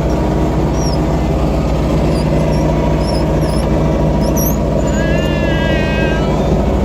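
Small motor boat's engine running steadily. Short high chirps come in the first half, and a high wavering squeal rises over the engine about five seconds in.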